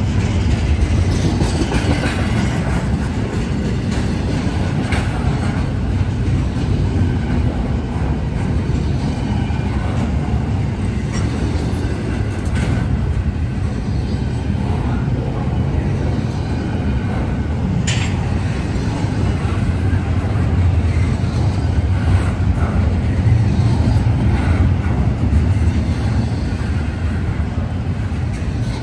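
Norfolk Southern intermodal freight train rolling past: a steady, loud rumble of wheels on rail with occasional sharp clicks, the strongest about 18 seconds in.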